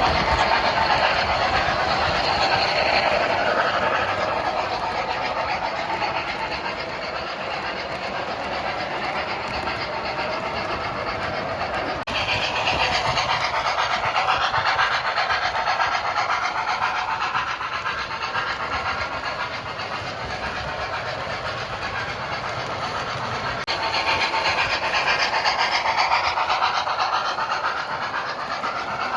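Steam locomotive running, with chuffing, hiss and wheels clattering over rail joints. The sound changes abruptly about 12 s in and again about 24 s in, as if from one shot to another.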